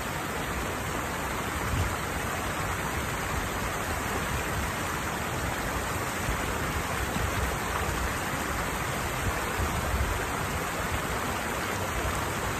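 Water pouring down a small weir cascade: a steady, even rush of falling water.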